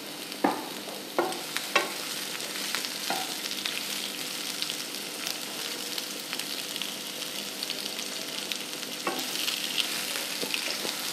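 Sliced red and yellow bell peppers sizzling in a little oil in a nonstick frying pan, a steady crackling hiss. A few light knocks come in the first few seconds and again near the end as pieces are added and stirred with a spatula.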